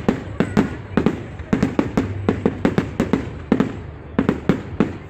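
Fireworks display going off in rapid succession: a barrage of sharp bangs, about four or five a second in uneven clusters with brief lulls between.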